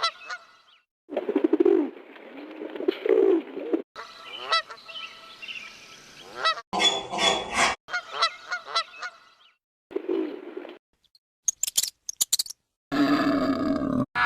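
Animal calls: a series of short, repeated pitched calls in several clips that cut in and out abruptly.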